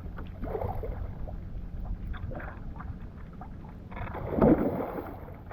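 Steady low wind rumble and water noise around a kayak at sea, with a louder burst of sound about four and a half seconds in.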